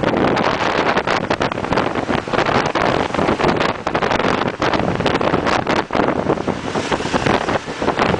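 Wind rushing and buffeting over the microphone of a moving motorcycle, with the bike's engine and road noise underneath.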